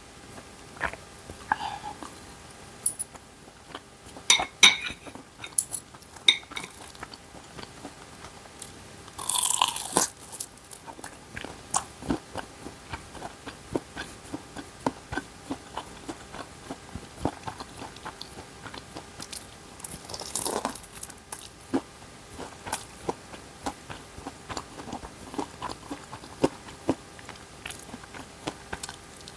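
Close-up eating sounds of a person eating instant ramen and dumplings: steady wet chewing and small mouth clicks, with a couple of louder rushes of noise about ten and twenty seconds in.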